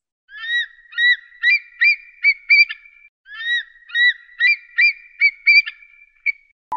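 Eagle calling: two runs of high, thin piping notes. Each run starts with a longer rising note and quickens into short, sharp chirps.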